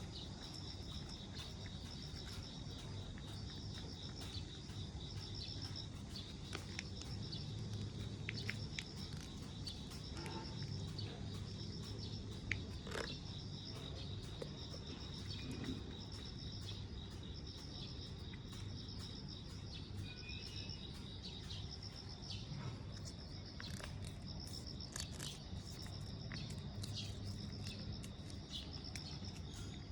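Insects chirping in a steady, even rhythm of short high chirps about once a second, over a low steady hum, with a few faint clicks scattered through.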